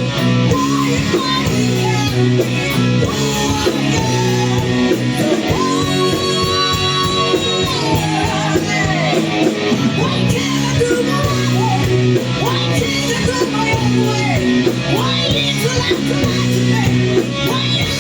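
A rock band playing live: guitars over bass and drums, possibly with a sung line. About six seconds in, a high note is held for roughly two seconds.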